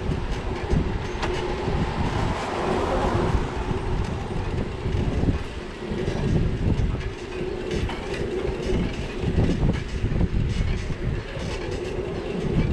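Steady rumble and rattle of wheels rolling over a city street, with many small clicks and clatters.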